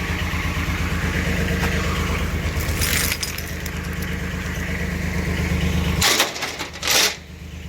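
Engine idling steadily with an even pulse, cutting off suddenly about six seconds in, followed by a couple of short rushing noises.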